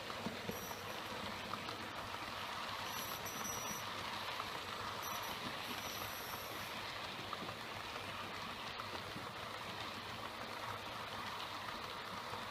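Model train running on a test track: a steady whirring and rolling of the locomotive and wagons on the rails, with a few faint clicks.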